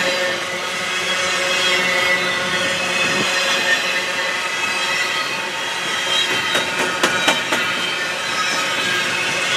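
Double-stack intermodal well cars loaded with containers rolling past at close range: a steady rumble and hiss of steel wheels on rail, with a thin steady whine over it. A cluster of sharp clicks comes about six to seven seconds in.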